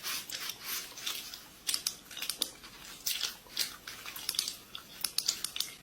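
Close-miked eating: someone biting and chewing crunchy food, an irregular run of crisp crunches.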